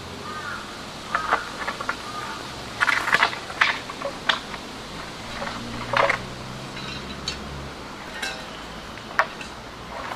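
An irregular series of clinks and knocks as camp gear is handled, with the loudest clatter about three seconds in and again around six seconds.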